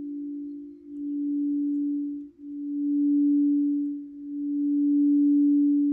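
Singing bowl sustaining one steady low tone that swells and fades in waves every one and a half to two seconds.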